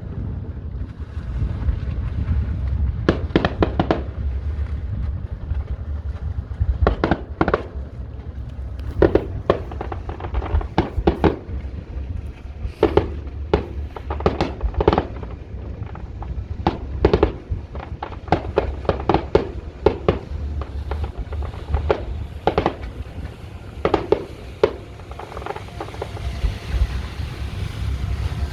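Fireworks bursting in the sky, dozens of irregularly spaced bangs and crackles, some in quick clusters, over a steady low rumble.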